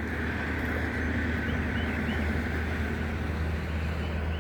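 Steady road traffic noise, a low hum with a hiss of tyres, with a few faint short chirps above it.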